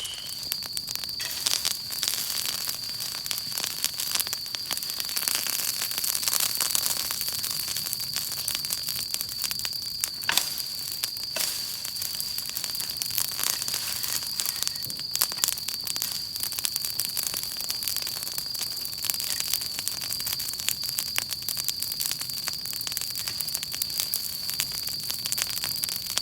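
Wood fire crackling with many small sharp pops and a few louder ones, over a steady high whistle.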